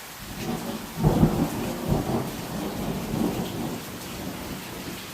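A thunderclap rumbling, loudest about a second in and rolling away over the next few seconds, over the steady hiss of heavy rain.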